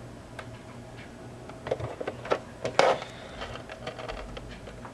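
Handling noise from a small plastic table fan being turned over: scattered clicks and knocks, the loudest a little past two seconds and near three seconds in, with the fan switched off.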